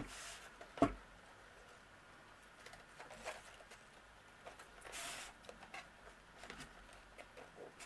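Faint rustling and soft handling of a silver pleated ribbon bow on a cardstock box, with one sharp knock about a second in and a brief swish about five seconds in.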